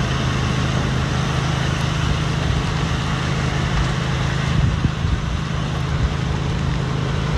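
Steady hum of a vehicle engine under an even rushing hiss of road or wind noise.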